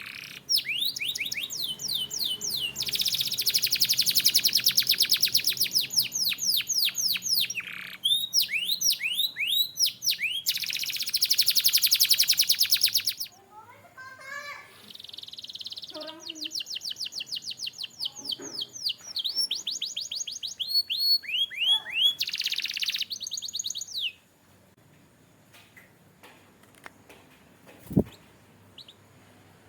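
Canary singing: long phrases of fast repeated, downward-sweeping notes and rapid high trills, with a few softer, lower notes in the middle. The song stops about 24 seconds in, and a single sharp click follows near the end.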